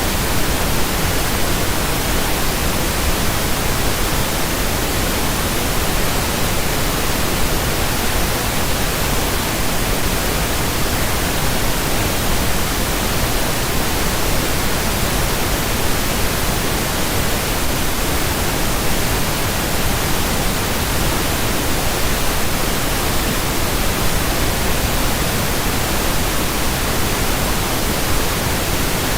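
Pink noise: a steady, even hiss that never changes in level.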